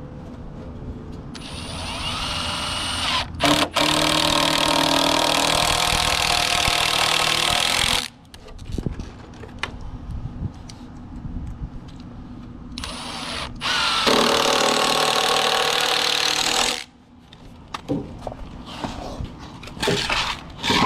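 Cordless drill driving screws into wooden concrete form boards. It runs twice: a long run of about six seconds, then a shorter one of about three seconds.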